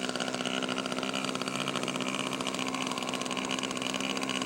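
Radio-controlled model airplane engine running steadily at an even pitch, neither rising nor falling.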